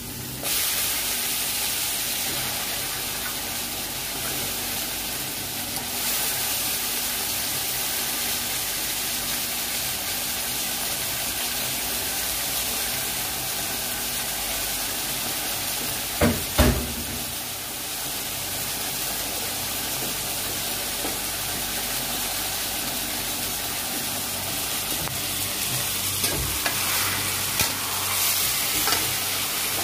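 Raw chicken pieces sizzling in hot oil in a steel wok, stirred with a metal spatula; the sizzle gets louder about half a second in. Two loud knocks come about halfway through, and a few scraping clicks near the end.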